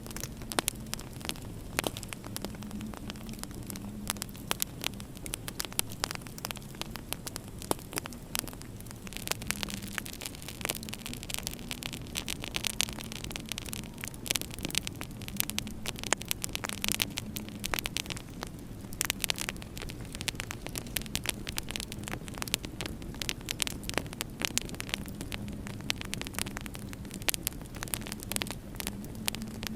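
Wood fire in a fireplace crackling with many irregular sharp pops, over a low steady hum that swells and fades.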